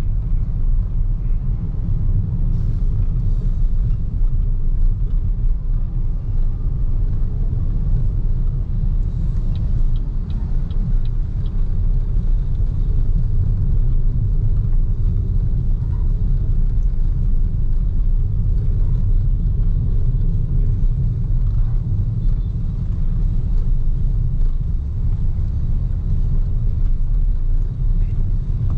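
Steady low rumble of an electric BYD Seagull car on the move: tyre and road noise with wind, and no engine sound. A short run of faint, evenly spaced ticks comes about ten seconds in.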